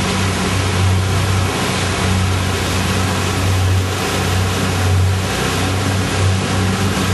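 A motor engine running steadily with a low, even drone, heard from on board over a wash of wind and motion noise.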